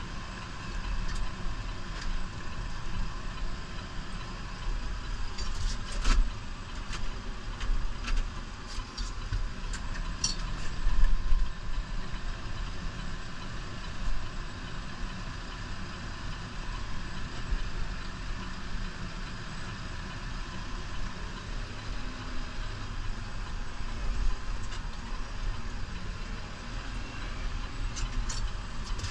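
New Holland Powerstar 75 tractor's diesel engine running steadily, with a few sharp knocks or rattles between about six and eleven seconds in.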